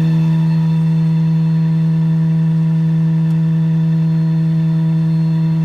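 Vacuum truck running steadily under load while sucking up liquid: its engine and vacuum pump make an even, loud hum with a strong low drone and higher tones that do not change.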